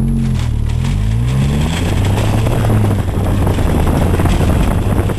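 Car engine pulling away, its pitch rising over the first two seconds, then running steadily under a growing rough rumble, heard from inside the car.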